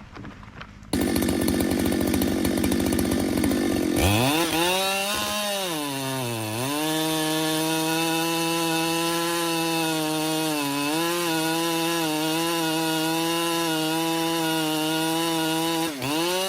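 Chainsaw running rough for a few seconds, then revving up about four seconds in and cutting into a tree at full throttle. Its pitch sags under load for a moment, then holds steady until it stops near the end.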